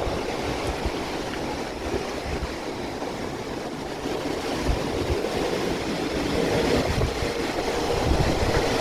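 Typhoon wind and heavy rain blowing in gusts, growing louder toward the end, with the wind buffeting the microphone in low thumps.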